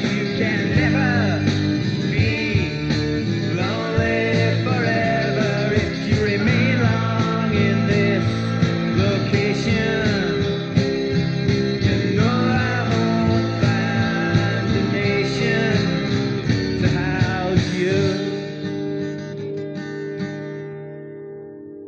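Rock music with guitar, bass and drums playing the song's instrumental close, fading out over the last four seconds or so.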